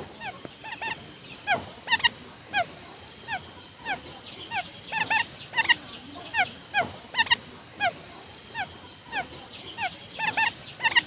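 Quail calling: short whistled notes that fall in pitch, given singly or in quick pairs and triples, repeated about every half second to a second.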